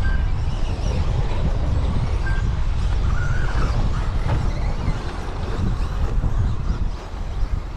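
Low rumble of wind buffeting the microphone over the noise of 1/10 scale radio-controlled trucks racing on the track, with a few brief faint high whines.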